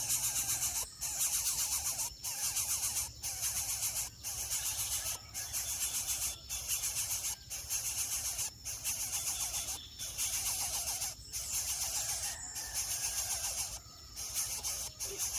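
Greater coucal nestlings giving rapid trilling begging calls in bursts about once a second, with a high hiss running under them.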